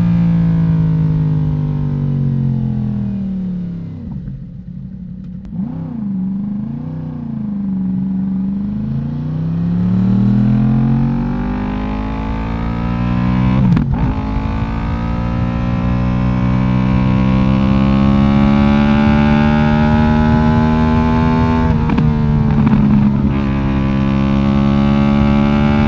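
Yamaha YZF-R1's inline-four engine through an Akrapovic exhaust: the pitch falls as the bike slows over the first few seconds, with a few light throttle blips. The engine then pulls away with rising pitch, with sharp clicks about halfway and again near the end.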